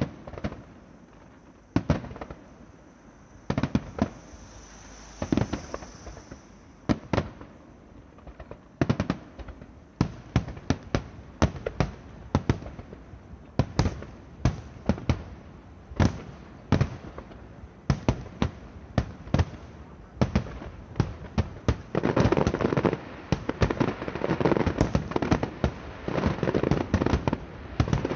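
Aerial firework shells bursting in a display. Separate bangs come a second or two apart at first, then faster from about nine seconds in. From about 22 seconds in they run together into a dense, continuous crackle of many bursts.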